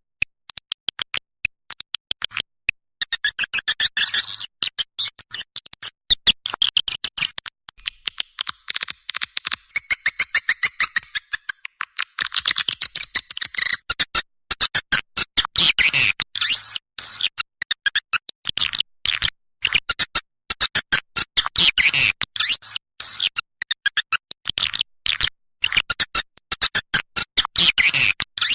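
Edible-nest swiftlet calls: rapid twittering chirps in quick runs with short breaks, an edited swiftlet lure recording of the kind played to call swiftlets into a bird house.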